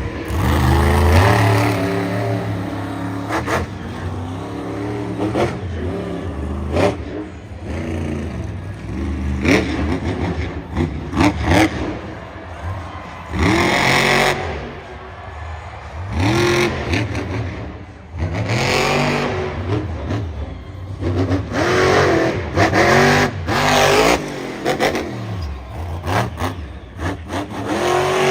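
Monster truck engine revving hard in repeated throttle bursts, its pitch climbing and falling with each one, mixed with sharp clatters and knocks from the truck.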